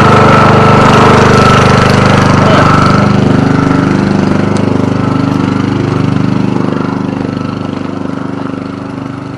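Old lawn tractor's engine running steadily after sitting unused since last year, with a high steady whine over it for the first three seconds. The engine grows gradually quieter toward the end.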